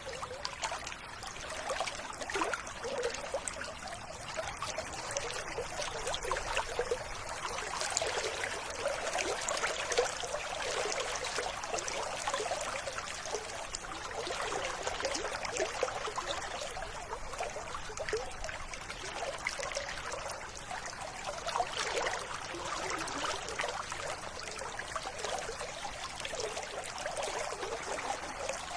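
River water flowing and trickling over stones, a steady babbling stream.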